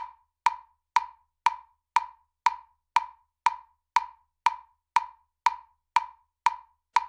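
Metronome clicking steadily at two clicks a second (120 beats per minute), every click the same short wood-block-like tick.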